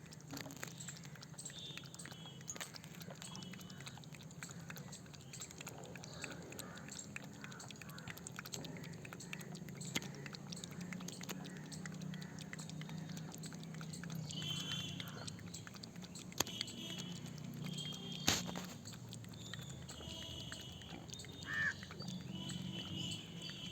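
A cat making short, funny-sounding high vocal noises over a steady low hum, with scattered clicks and one sharp click about three quarters of the way through.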